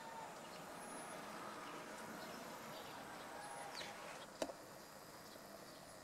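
Faint outdoor ambience with a few short, high bird chirps scattered through it. A single sharp click about four and a half seconds in.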